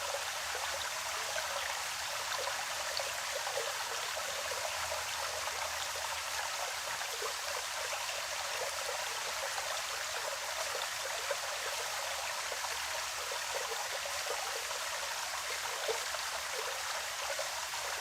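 A small forest stream running steadily, water trickling and bubbling over its bed.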